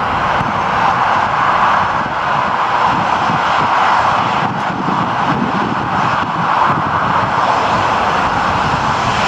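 Airliner engines running: a steady, loud rushing noise with no change in pitch.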